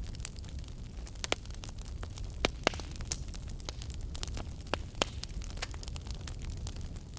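Wood fire burning with a steady low rumble and irregular sharp crackles and pops, the loudest a pair about two and a half seconds in.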